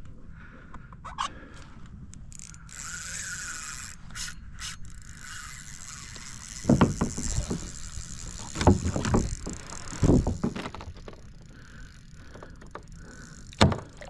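A spinning reel's drag and gears clicking during the fight with a hooked tarpon, with several loud thumps in the middle and one more near the end.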